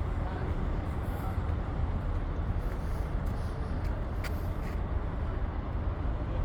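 A steady low rumble with a fainter hiss above it, and a faint click about four seconds in.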